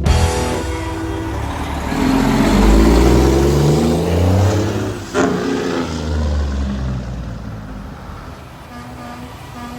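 A big truck's diesel engine revving as it passes, loudest about three seconds in. A short sharp burst comes about five seconds in, and then the engine fades away.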